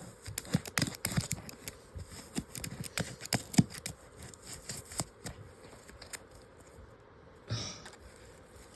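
Paper model phone being handled and taken apart: irregular light clicks and rustles of paper, busiest in the first five seconds and thinning out after, with a short rustle near the end.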